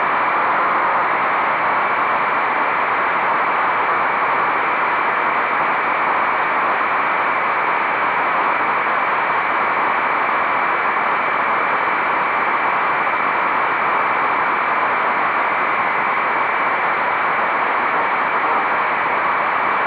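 Steady rushing wind noise on the microphone of a moving motorcycle, even in level throughout, with no clear engine note standing out.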